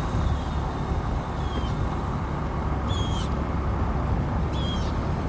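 Car driving, with a steady low engine and road rumble heard from inside the cabin. Over it come three short, high, slightly falling chirps about a second and a half apart.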